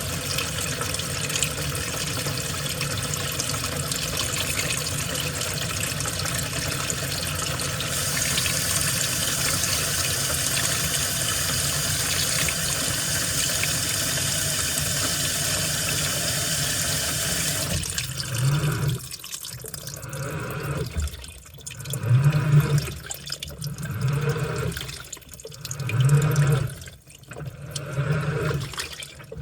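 Washing machine filling with a steady rush of water into the drum. About 18 seconds in, the inflow stops and the drum starts agitating, with water sloshing in rhythmic surges about every one and a half to two seconds, each with a low motor hum.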